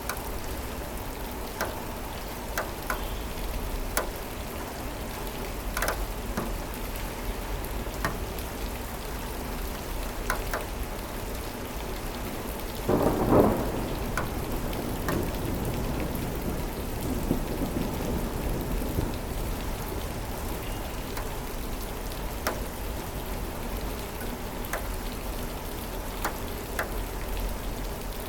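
Steady rain falling, with scattered sharp drips, and a roll of thunder about halfway through, followed by a fainter rumble a few seconds later.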